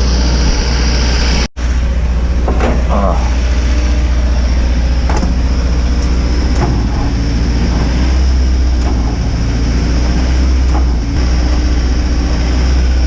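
Old Cummins diesel in a dump truck being cranked on a cold start and failing to catch, a steady heavy low sound, with a brief cut in the sound about a second and a half in.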